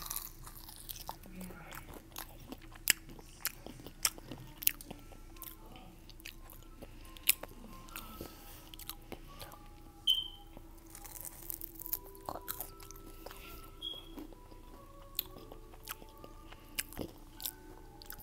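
A person eating something crunchy: crisp bites and crunching chews, with a string of sharp cracks scattered through.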